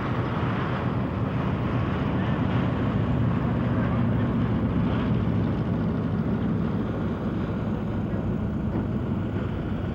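Lockheed C-130 Hercules four-engine turboprop droning steadily in flight, swelling slightly about halfway through and easing off toward the end.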